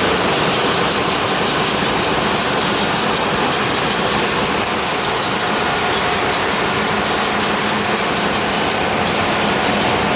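Bulk carrier's engine room machinery running: a loud, steady mechanical din with a low hum underneath.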